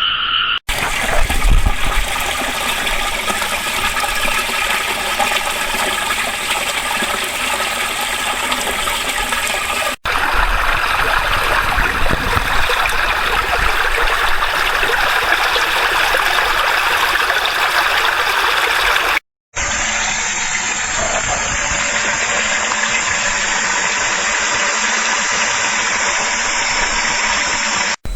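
Rushing, gushing water: three steady recordings of loud water noise, each cutting abruptly to the next, about ten and nineteen seconds in.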